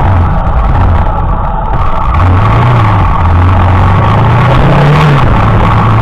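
Motorcycle engine running loud while riding, heard from a camera mounted low on the bike. Its pitch dips about a second in, rises again, then climbs higher about five seconds in before dropping back, over a constant rushing noise.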